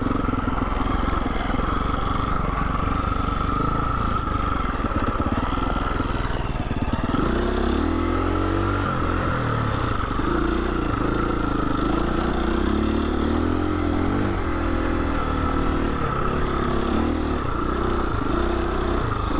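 Husqvarna 350 FE four-stroke single-cylinder dirt bike engine running under way. From about seven seconds in, the revs rise and fall repeatedly with the throttle.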